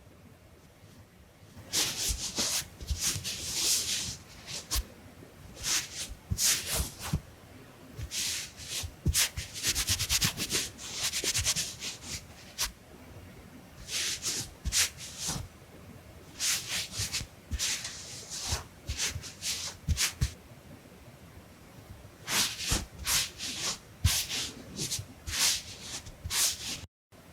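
Close-up scratchy rubbing strokes of an ASMR drawing tool worked over the face or lens, coming in quick clusters with short pauses between them, some clusters made of rapid ticking strokes. The sound cuts out briefly near the end.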